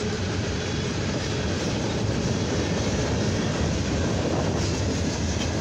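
Freight cars of a long train, steel coil cars and a hopper, rolling past at close range: a steady rumble and rattle of steel wheels on the rails.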